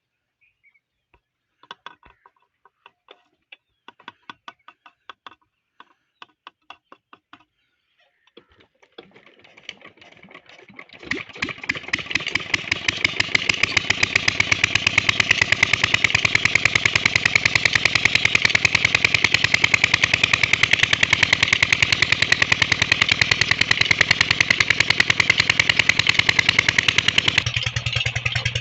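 A run of light clicks, then a Petter diesel engine starting from cold: it builds up about nine seconds in, catches a couple of seconds later and settles into steady running with an even, fast beat of firing pulses. Its tone changes slightly near the end.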